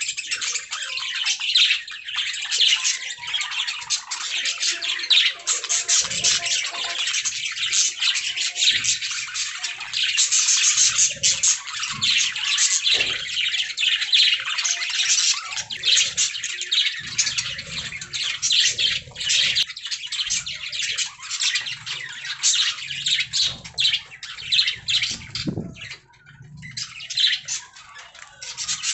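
Budgerigars chattering and chirping continuously, a dense stream of rapid warbles and squawks.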